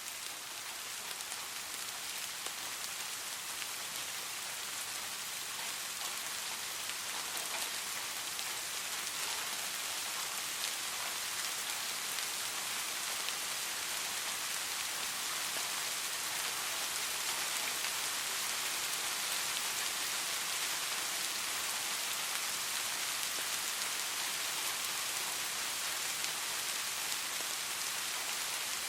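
Steady gentle rain, an even hiss of many fine drops pattering on surfaces, growing slightly louder over the first few seconds.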